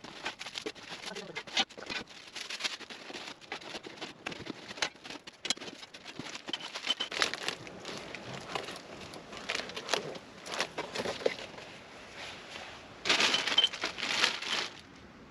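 Packaging being handled during unboxing of a new fire pit: plastic and paper crinkling and rustling, with small knocks, in uneven bursts. There is a louder stretch of rustling near the end.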